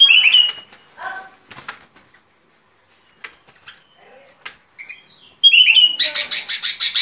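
Bulbul calls: a short bubbling phrase at the start and another about a second in, a few scattered faint notes, then a loud, rapid chattering run of notes from about five and a half seconds in.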